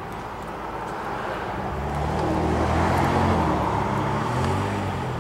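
A motor vehicle passing by, growing louder to about three seconds in and then fading away.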